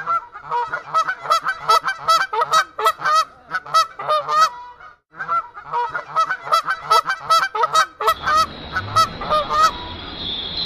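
Birds calling over and over in quick, repeated pitched calls, several a second, stopping abruptly for a moment about five seconds in. From about eight seconds a steady high hiss or buzz joins the calls.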